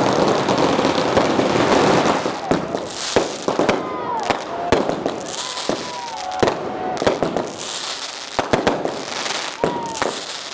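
Firecrackers going off: a dense run of rapid bangs for about the first two seconds, then scattered sharp bangs.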